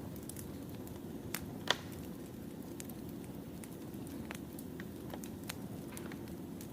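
Wood fire burning: a steady low rumble with irregular sharp crackles and pops of the burning logs, two louder pops between one and two seconds in.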